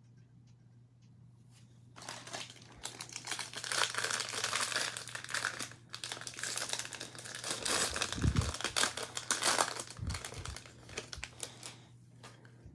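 Foil baseball card pack wrapper being torn open and crumpled by hand, a dense crackling and crinkling that starts about two seconds in and goes on for about ten seconds, with a couple of soft thumps near the end.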